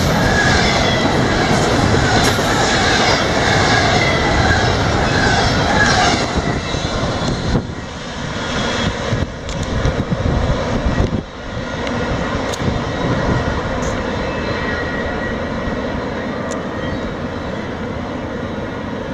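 CSX intermodal freight train's cars rolling past at speed, their wheels on the rails giving a loud rumble with a wavering squeal. About six seconds in the squeal stops and the sound drops to a steadier rumble that slowly fades as the train recedes.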